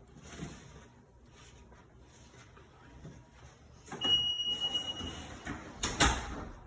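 Faint knocking, then handling clatter with a short, steady high-pitched beep about four seconds in, and a single loud slam about six seconds in.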